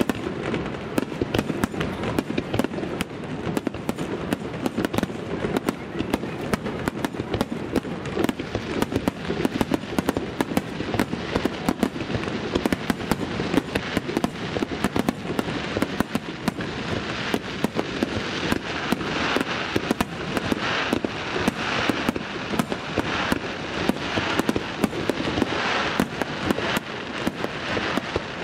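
Aerial fireworks going off in a dense, continuous barrage of bangs, several a second. From about the middle on, a fizzing crackle swells in and out between the bangs.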